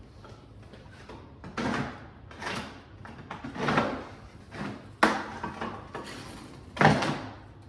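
Pieces of manufactured veneer stone knocking and scraping against each other as they are handled and tried for fit, about five times, with two sharper knocks about five and seven seconds in.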